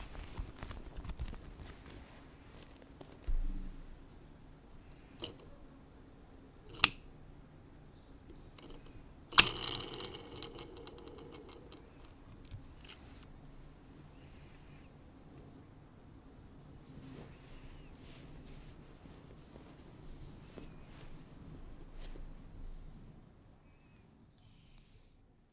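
Crickets trilling in one steady, high, continuous chirr. Several sharp clicks cut across it, with a louder scratching, brushing burst about nine seconds in, and the low background noise drops away near the end.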